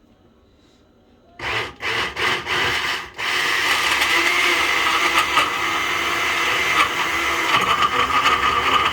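Countertop blender switched on in a few short pulses about a second and a half in, then running continuously. It is struggling to blend hard-frozen banana chunks that need more liquid.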